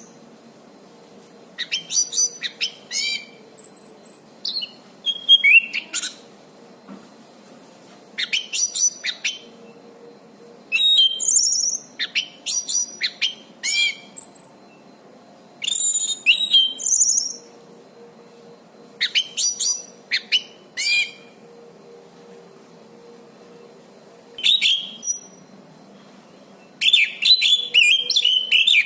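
Orange-banded thrush (anis cendana) singing in loud, varied phrases of whistles and quick chattering notes, about nine phrases separated by short pauses.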